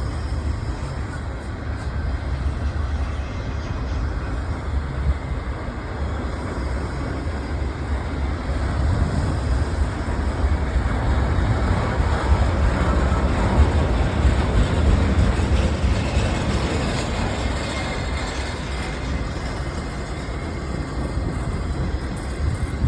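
BNSF intermodal freight cars rolling past: a steady rumble of steel wheels on rail, swelling a little about halfway through.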